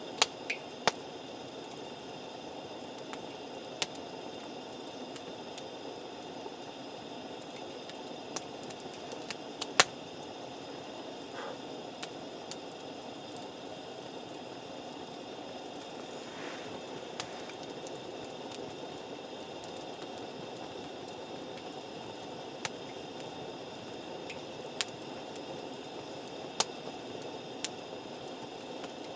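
Wood campfire burning with a steady hiss, broken by scattered sharp crackles and pops, the loudest about ten seconds in.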